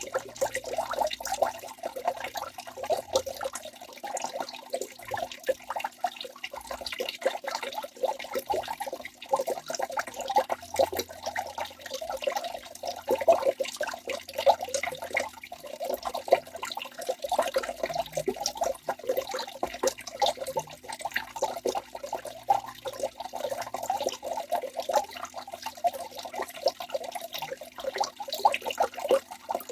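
Waterfall: water splashing and pouring steadily, a constant rush dotted with many small splashes.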